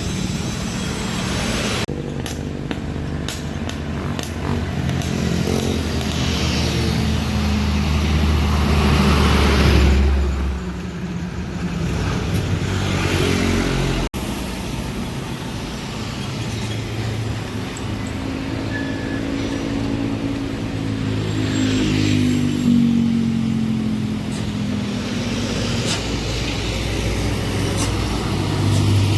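Diesel engines of heavily loaded trucks labouring up a steep climb, pitch shifting as they work; the sound breaks off abruptly about halfway through and picks up again.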